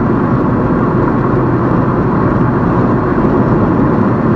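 Steady road and engine noise heard from inside a car cruising at highway speed.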